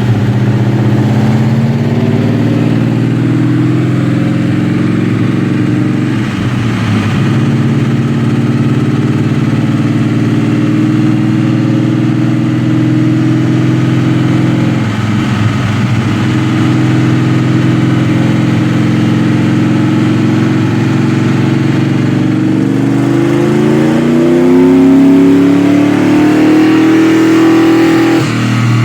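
Ford 4.6-litre two-valve V8 in a Mustang GT running a dyno pull under load. Its pitch climbs in stretches, dropping twice along the way like gear changes, and reaches its peak near the end before it lets off. This is the first pull, with the engine running very rich.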